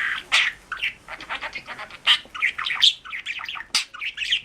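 A bird chirping and squawking in a rapid, irregular run of short calls, a few of them louder than the rest.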